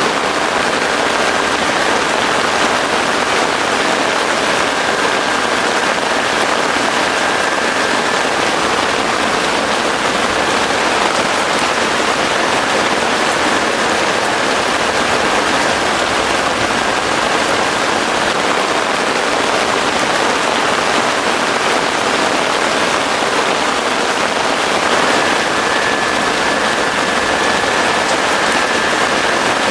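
Heavy rain falling steadily as an even, unbroken hiss. A faint thin high tone sounds through it on and off.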